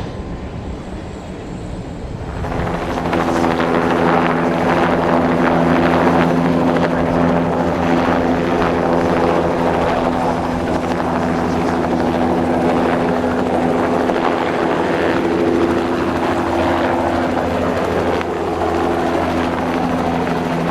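Bell 206B JetRanger III helicopter running close by, a steady hum of its turbine and two-bladed rotor that swells up about two seconds in and then holds steady and loud.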